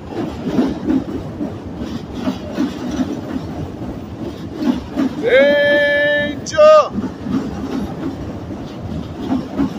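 Train rumbling and clattering along the tracks, with an irregular low knocking throughout. About five seconds in, a loud drawn-out shout of "Danger!" cuts over it for under two seconds.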